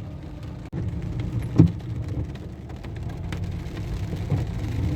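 Low, steady rumble of a car in slow traffic with rain falling on it, heard from inside the car. A short knock about a second and a half in.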